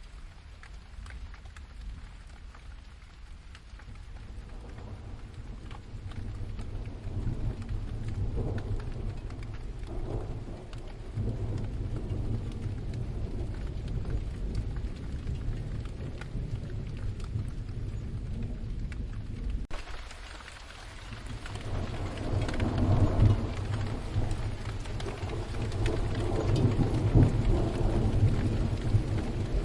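Steady rain with rolling thunder: deep rumbles swell a few seconds in, ease off, cut away suddenly about two-thirds through, then build again, louder, toward the end.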